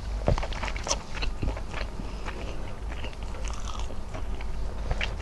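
Close-miked chewing and wet mouth sounds of eating squid adobo with rice: a quick, uneven string of short clicks and smacks, a few louder ones about a third of a second and a second in.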